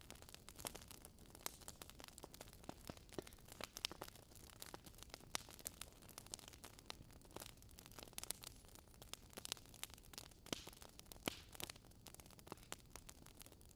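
Campfire crackling: irregular sharp pops and snaps, several a second, over a faint low hiss.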